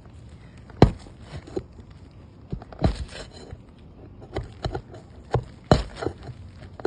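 Irregular sharp knocks and taps of hand tools prying and striking at asphalt roof shingles and their nails, with three louder strikes among lighter taps.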